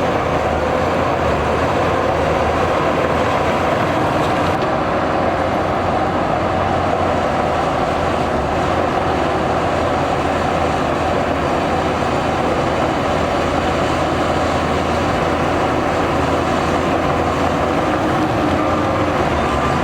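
Heavy diesel earthmoving machinery running steadily, a continuous engine drone with no breaks or sharp knocks.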